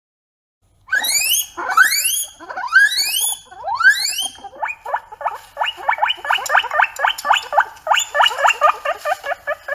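Guinea pig wheeking: four loud rising whistles, then a quick run of short, repeated squeaks, about four a second.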